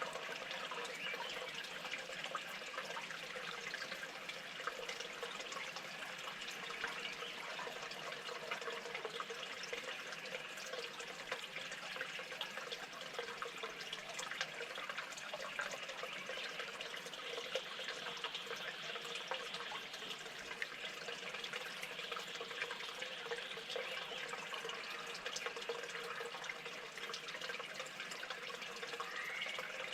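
Steady running, trickling water with many faint ticks.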